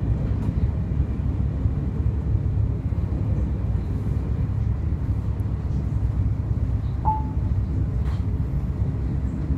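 Steady low rumble of a train in motion, with a brief faint tone about seven seconds in.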